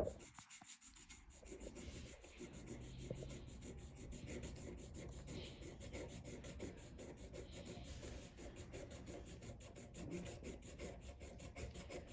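Faint, steady scratching of a drawing tool scribbling small messy circles on paper, with one sharp click at the very start.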